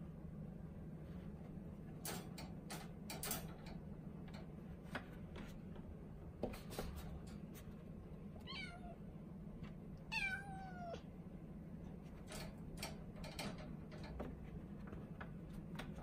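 Norwegian Forest Cat kitten meowing twice, each call falling in pitch, with the second the louder and longer; the cries are the demanding kind of a kitten wanting out of its cage. Scattered light clicks and taps come before and after the meows over a steady low hum.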